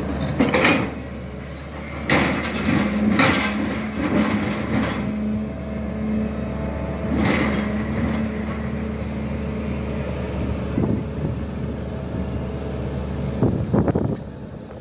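SANY excavator's diesel engine running steadily under load, with several sudden knocks as it digs.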